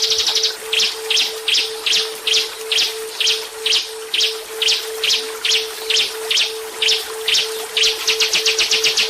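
A small songbird's sharp, high call notes, repeated evenly about two and a half times a second, breaking into a fast buzzing 'tembakan' trill near the end and with a brief trill at the very start. A low pulsing tone runs steadily underneath.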